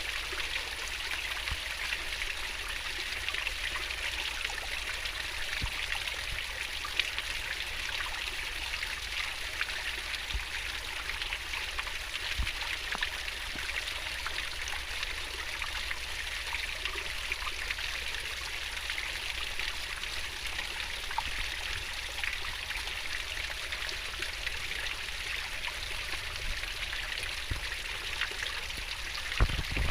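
Swift-flowing river water babbling in a steady, unbroken rush.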